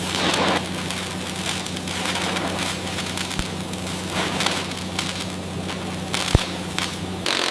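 Lifting machinery running with a steady low hum under dense crackling and crunching. There is one sharp crack a little after six seconds, and the hum cuts off near the end.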